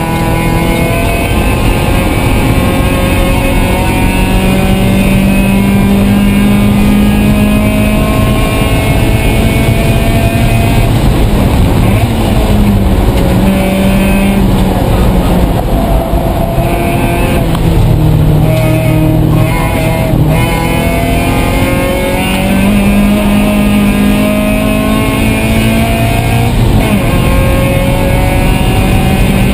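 A 1999 Mazda Miata race car's engine, with header, cold-air intake and aftermarket exhaust, heard loud from inside the cabin at racing speed. Its pitch climbs under full throttle, breaks off at shifts and braking, and climbs again several times.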